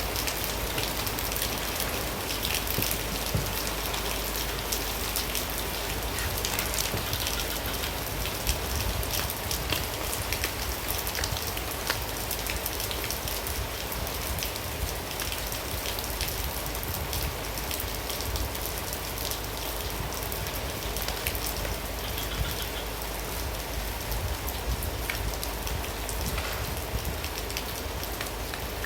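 Heavy rain falling steadily, a dense continuous hiss dotted with many sharp individual drop impacts.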